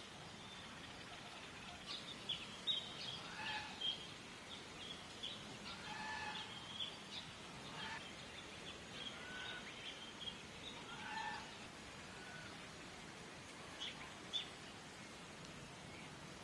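Faint, high-pitched bird chirps and peeps, many short notes crowded into the first half and two more near the end, with a few lower drawn-out calls between them over a quiet outdoor hiss.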